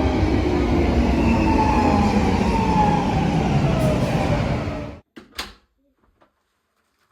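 A train or metro running with a loud rumble, a faint whine falling slowly in pitch as it slows. The sound cuts off abruptly about five seconds in, followed by a couple of short clicks.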